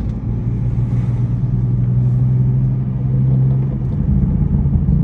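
A car's engine and exhaust droning steadily at a low pitch while driving, with the drone easing off about four seconds in.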